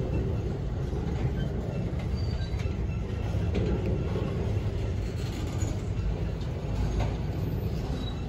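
Florida East Coast Railway intermodal freight train rolling past: a steady low rumble of wheels on rail, with faint brief squeals and clicks.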